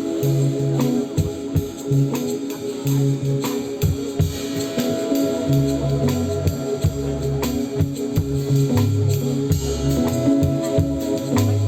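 Live band playing instrumental trance music: a pulsing bass line changing note every second or so, sustained guitar or keyboard tones, and a steady drum kit with hand percussion ticking over it.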